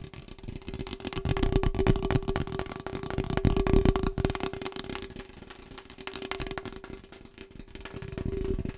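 Very fast, aggressive tapping on a hard household object, many taps a second, louder in the first half and softer after about five seconds, with a steady tone underneath.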